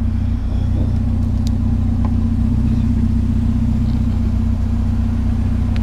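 Pickup truck engine idling steadily, a constant low hum, with a couple of faint ticks.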